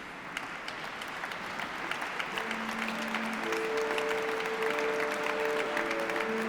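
Audience applause, a dense patter of many hands clapping that swells in loudness. About two and a half seconds in, steady held musical notes come in beneath it.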